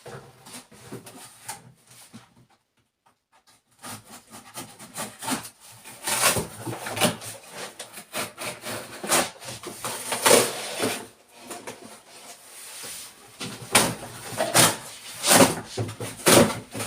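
Cardboard refrigerator carton being ripped and torn apart: irregular ripping and scraping strokes, with a short pause a couple of seconds in, then coming thicker and louder.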